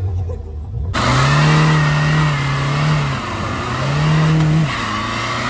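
A car engine revved and held high twice, each time for a second or two, then running at a steady lower speed.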